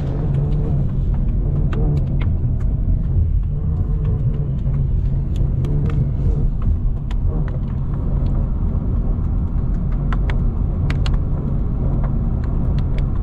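Car driving with a steady low road-and-engine rumble, with scattered light ticks and clicks over it.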